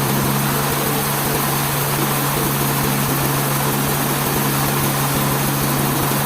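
Machinery running steadily, a constant low hum over a broad even noise, with no change in load or speed.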